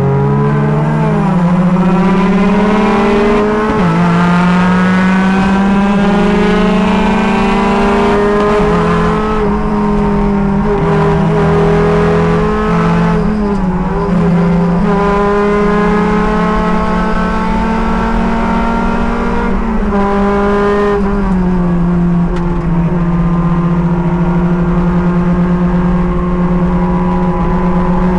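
Race car engine running hard at high revs, heard from inside the car. The pitch climbs and dips several times with gear changes and lifts, then settles lower about three quarters of the way through.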